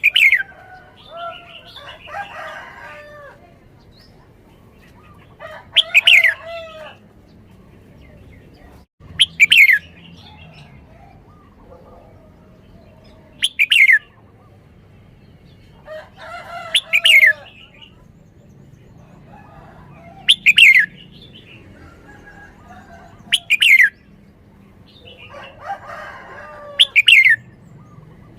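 Red-whiskered bulbul singing: about eight short, loud phrases of quick falling notes, repeated every three to four seconds, with softer warbling and chatter between them.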